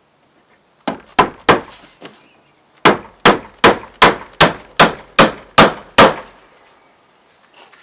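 Hammer striking nails into wooden boards: three quick blows, a pause, then nine steady blows about two and a half per second.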